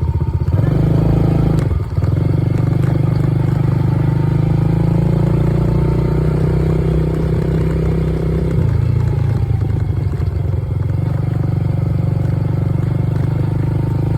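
Dirt bike engine running as it is ridden, a steady low drone with a brief dip about two seconds in and a change of note about eight and a half seconds in.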